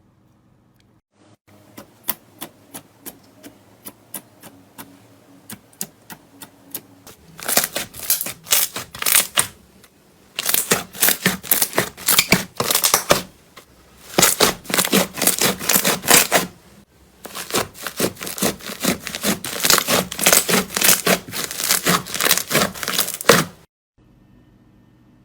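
Slime being worked by hand, giving sharp clicking pops: a few spaced clicks at first, then four runs of rapid, dense clicking with short pauses between, ending abruptly near the end.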